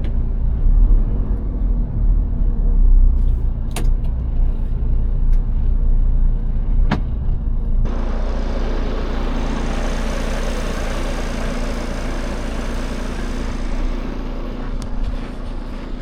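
Heavy timber truck's diesel engine running with a deep rumble, with a couple of sharp clicks in the first seven seconds. About eight seconds in, a steady hiss joins suddenly and carries on for several seconds.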